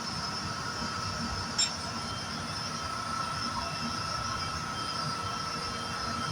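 Air-handling-unit fan running steadily: a constant mechanical hum and rush of air with a thin high whine held at one pitch, and one sharp click about one and a half seconds in.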